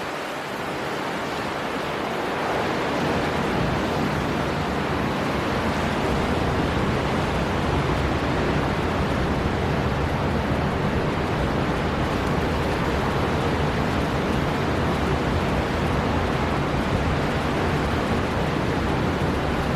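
Storm wind blowing hard over heavy sea surf, one even rushing noise with most of its weight in the low end. It swells a little over the first few seconds, then holds steady.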